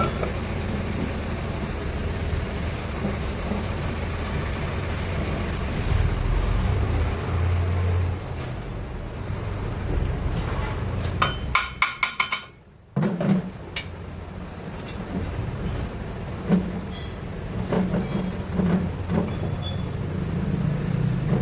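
A steady low hum of running machinery in a workshop, then a quick run of sharp metal clinks about halfway through, followed by scattered lighter clinks and knocks of metal engine parts and tools being handled.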